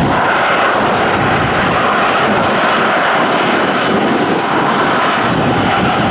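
Jet engines of an Airbus A330-343 airliner, its Rolls-Royce Trent 700 turbofans, running with a loud, steady noise.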